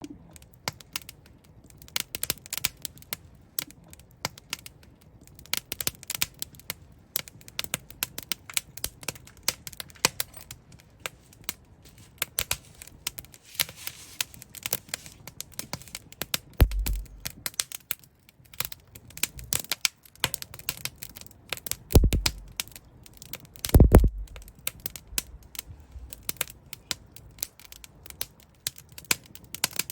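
Wood fire in a fireplace crackling, with many sharp irregular snaps and pops. A few deeper thuds stand out about two-thirds of the way through.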